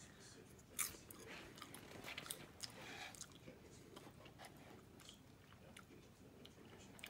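A person biting into and chewing a piece of microwave popcorn: a crisp crunch about a second in, then quieter crunching that thins out.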